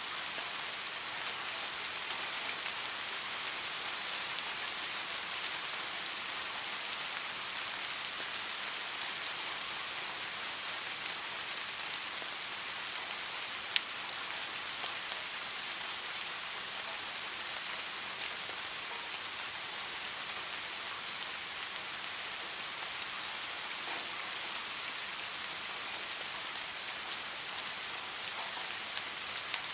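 Steady rain falling, an even hiss with scattered drop ticks and one sharp drip or tap about halfway through.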